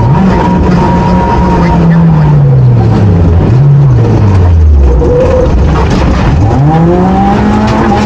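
A 2008 Honda Fit rally car's four-cylinder engine heard from inside the cabin under hard driving. The revs sag over several seconds with one short blip, drop low about five seconds in, then climb sharply and hold high, over steady road and wind noise.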